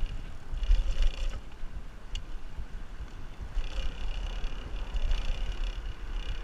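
Riding a bicycle: wind buffeting the microphone with a steady low rumble, over rolling noise that swells and fades, and one sharp click about two seconds in.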